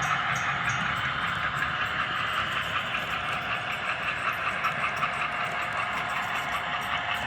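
Model trains running on a layout: a steady rolling and motor noise with a quick run of light clicks.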